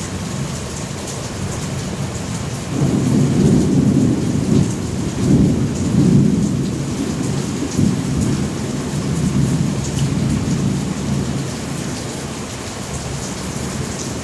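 Thunder rolling over steady rain. A low rumble sets in suddenly about three seconds in, swells several times, then slowly dies away, while the rain hisses throughout.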